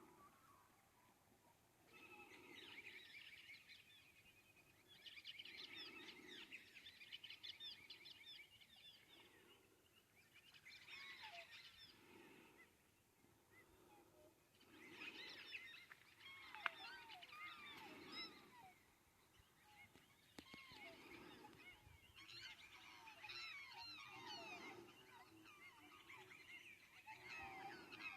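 Faint birdsong: several birds chattering in bouts of rapid, overlapping chirps and trills that come and go every few seconds, with one sharp click about two-thirds of the way through.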